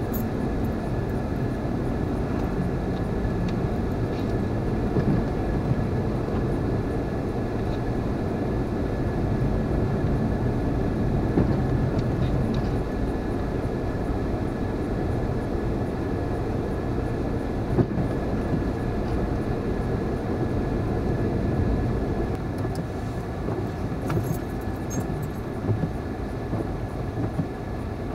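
Steady road and engine rumble inside the cabin of a Honda CR-V driving on snow tires, with a few light clicks near the end.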